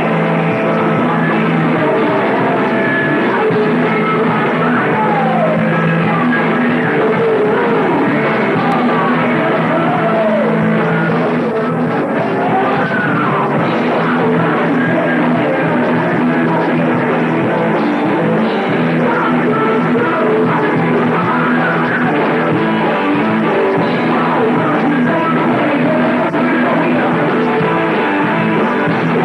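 Heavy metal band playing live in a rehearsal, with electric guitars and singing, captured as a loud, thin-sounding recording with little deep bass.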